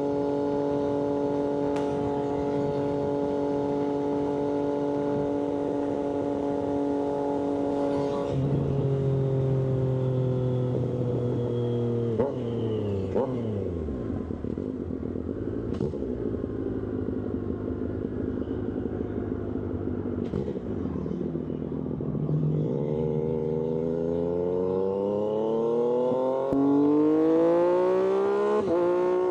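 Triumph Street Triple 765RS's three-cylinder engine through an SC-Project aftermarket exhaust, heard from the rider's seat: running at a steady speed, then a shift about eight seconds in and the revs falling away as the bike slows. It runs low for several seconds, then the revs rise again through a gear change, louder near the end.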